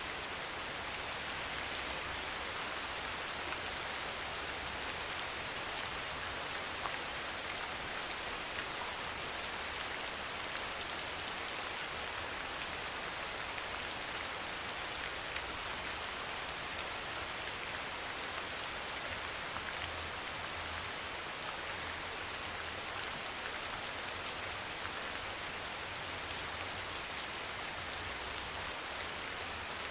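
Steady soft rain falling: a constant hiss of water with many small drops pattering on surfaces.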